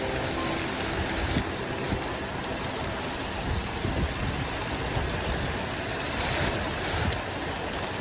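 Steady rain ambience: a dense, even hiss of falling rain with a low rumble underneath, no music over it.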